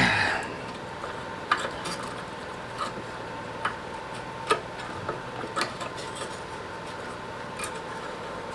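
A loud clunk at the very start, then irregular light metallic clicks and taps as a metal bracket is worked and bent by hand.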